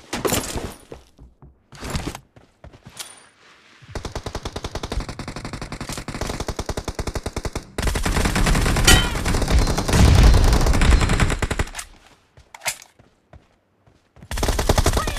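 Video game automatic gunfire: a few single shots, then long bursts of rapid fire from about four seconds in, louder and heavier from about eight seconds until about twelve, with scattered shots after.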